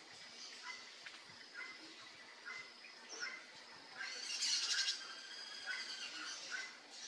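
Birds chirping in short, scattered calls, with a louder harsh, buzzy squawk lasting about a second starting about four seconds in.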